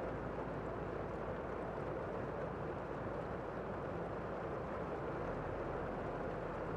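Steady rain heard from inside a room: an even, dull rushing hiss with no separate drops or drips standing out.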